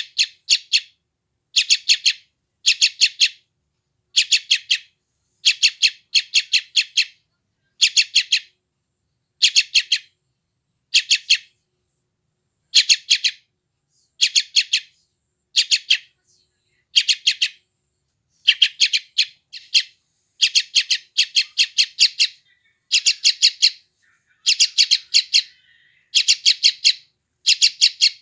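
Young yellow-vented bulbul (trucukan) giving loud, rapid begging calls in short bursts of several quick notes, about one burst a second, with a brief pause about halfway through.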